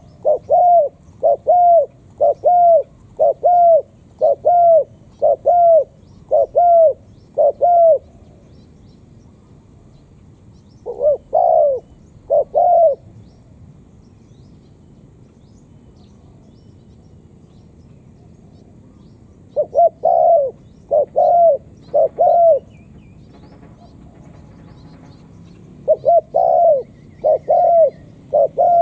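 Spotted dove cooing in runs of short, arching coos about one every 0.8 seconds: a run of nine, a pause, two more, a longer pause, then three, and another run starting near the end.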